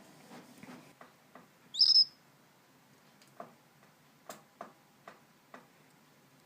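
A pet bird gives one loud, high, short chirp about two seconds in, followed by a few soft, scattered clicks.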